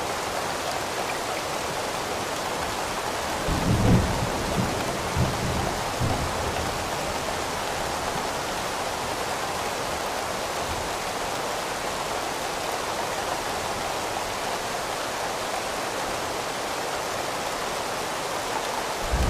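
Steady rain, with a low rumble of thunder that swells about three and a half seconds in and rolls on for a few seconds, and another rumble beginning at the very end.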